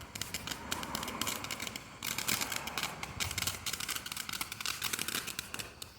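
Small firework fountain crackling: a dense run of rapid sharp pops and clicks. It dips briefly about two seconds in and dies away near the end.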